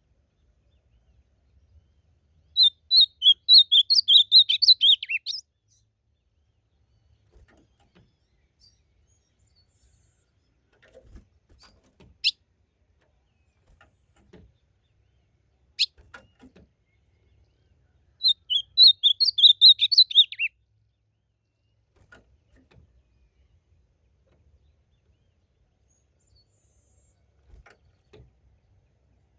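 Ultramarine grosbeak (azulão) singing: two song phrases about fifteen seconds apart, each a quick run of warbled notes lasting about two and a half seconds. A couple of short sharp clicks fall between the phrases.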